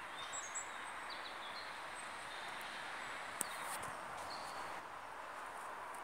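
Small birds chirping now and then over a faint, steady outdoor hiss, with a single sharp click about three and a half seconds in.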